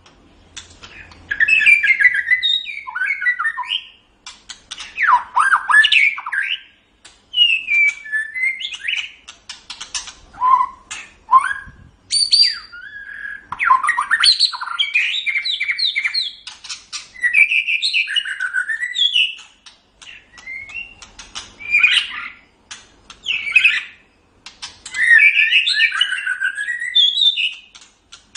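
White-rumped shama (murai batu) singing: fast, varied phrases of sliding whistles and chattering notes, each lasting one to three seconds and separated by short pauses.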